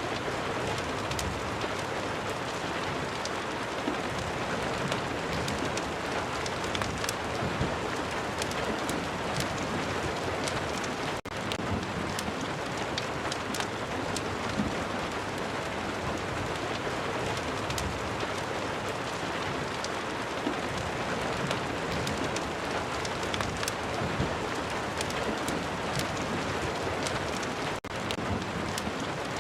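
Steady rain recording: a dense, even hiss of falling rain with scattered sharp ticks and crackles from a fireplace mixed in. The sound dips out very briefly twice.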